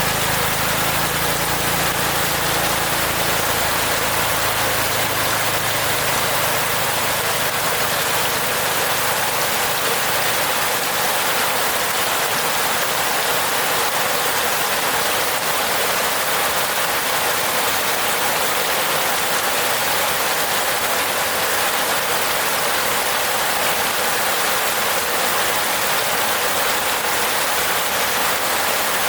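Steady rain falling on a roof, an even hiss of drops. A low hum underneath fades out over the first several seconds.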